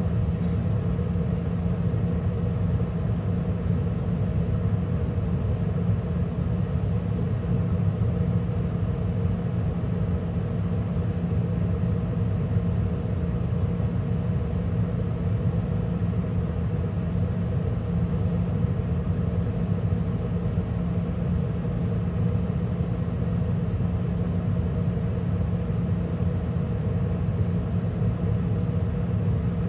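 2013 Carrier gas furnace running steadily in mid heating cycle, with burners lit and the inducer and circulating blower running: an even rumble with a steady hum.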